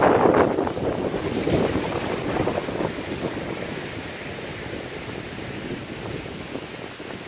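Steady rushing noise of wind buffeting the microphone, loud at first and gradually fading.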